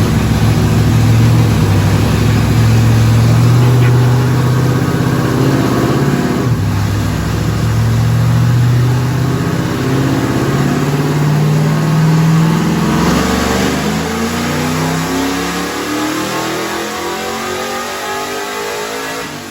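A naturally aspirated race engine at full throttle, its pitch climbing through the gears. The pitch drops at a shift about six and a half seconds in and again about thirteen seconds in, and the last pull grows fainter toward the end.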